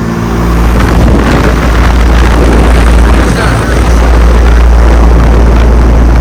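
Commercial air conditioning condensing unit running with an obnoxious-sounding large scroll compressor: a loud, steady low hum under the rush of the condenser fan, the unit shaking as it runs.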